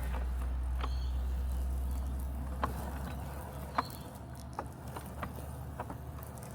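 Robotic lawn mower running with a steady low hum that weakens about halfway through, with scattered light clicks over it.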